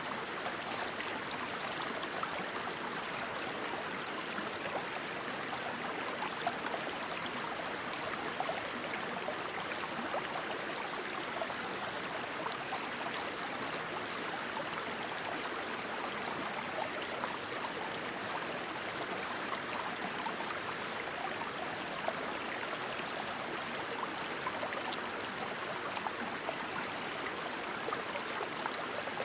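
Rushing stream water running steadily. Short high chirps are scattered over it, with a brief fast trill about a second in and another around sixteen seconds.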